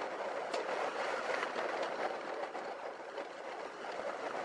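Steady driving noise inside a moving motorhome's cab, the engine and tyres making an even rumble-free hiss with no sharp events.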